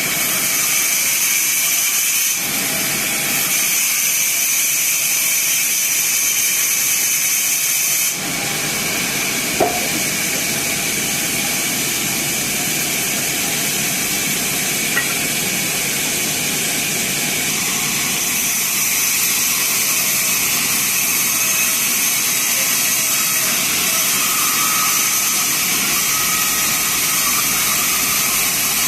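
Sawmill band saw running and sawing teak wood: a steady hiss with a high whine, changing abruptly about eight seconds in, with two short clicks later.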